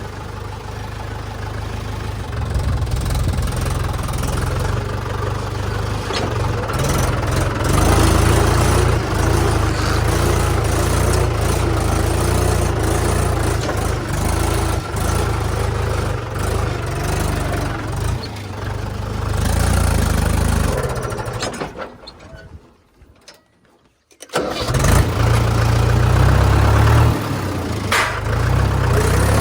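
Mahindra 475 tractor's diesel engine running with a heavy low rumble; the sound drops out for about two seconds about three-quarters of the way through, then resumes.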